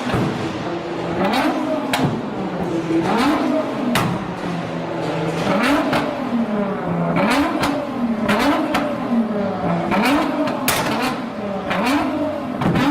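Car engine revved over and over, its pitch climbing and dropping about once a second, with sharp pops and cracks in between.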